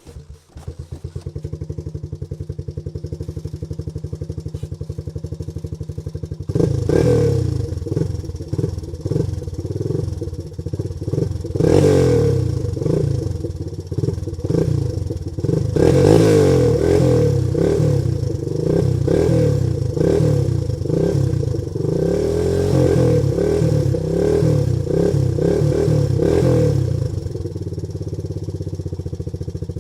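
Trike (three-wheeled motorcycle) engine idling with a steady even beat, then revved up and down repeatedly for about twenty seconds, and settling back to idle near the end.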